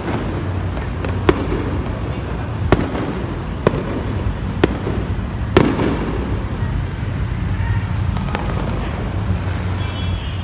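Fireworks going off: a series of separate sharp bangs, about one a second for the first six seconds, the loudest near the middle, then a fainter one a little later, over a steady low background rumble.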